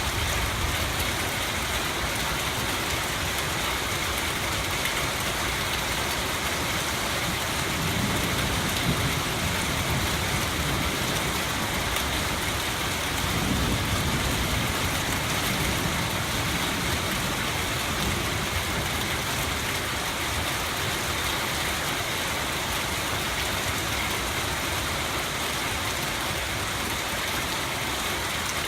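Steady rain falling, a continuous even hiss, with a low rumble swelling briefly twice, about eight and thirteen seconds in.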